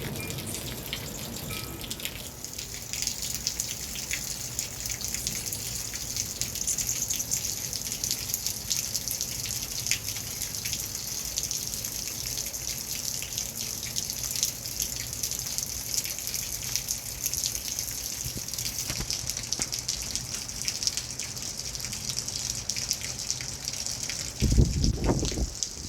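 Steady rain falling and dripping: an even hiss dotted with small drop ticks. About a second before the end comes a brief, loud low rumble.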